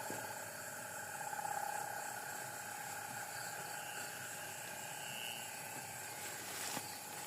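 A steady droning whir made of several held tones, with one sharp click near the end.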